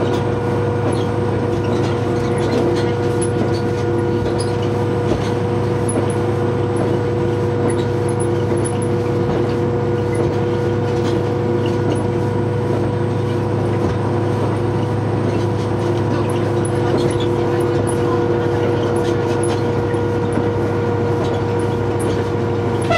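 Diesel train running steadily under way, heard from on board: a constant whine over a low drone.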